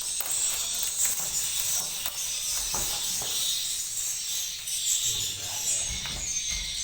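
Swiftlets' high twittering chirps, a dense steady chatter, with low handling rumbles from about five seconds in.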